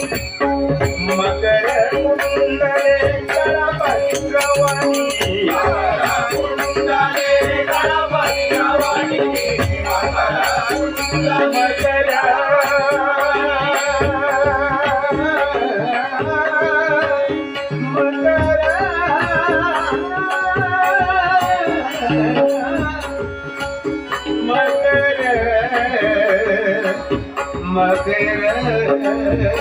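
Devotional bhajan music: a male singer draws out long, wavering, ornamented phrases over a steady harmonium drone. A hand drum and small clashing cymbals keep the beat.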